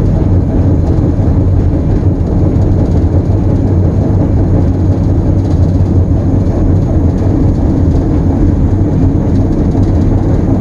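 Diesel locomotive engine running steadily at throttle notch 2, heard from inside the cab, with a deep, even hum and the rumble of the train rolling.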